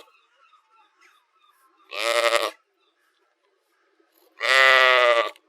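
Sheep bleating twice: a short baa about two seconds in, then a longer, louder one a little over four seconds in.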